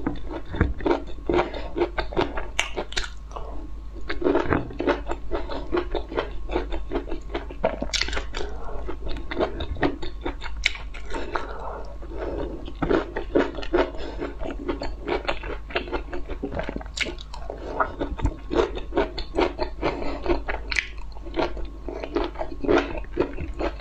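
Close-miked chewing and crunching of broccoli florets, many quick crunches in a row, over a low steady hum.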